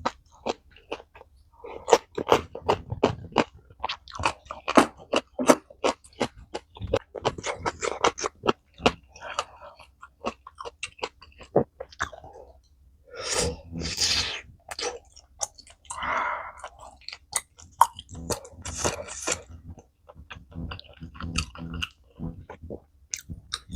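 Close-miked chewing of spicy tteokbokki: a dense, irregular run of wet mouth clicks and crunches, with a few longer breathy sounds about halfway through.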